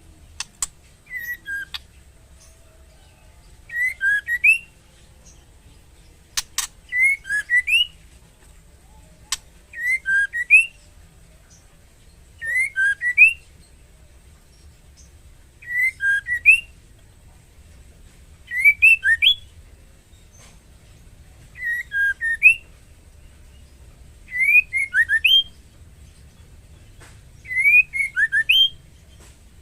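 Female white-rumped shama calling: a short phrase of quick rising whistled notes, repeated about every three seconds. It is the call of a female in breeding condition calling a male. A few sharp clicks sound in the first third.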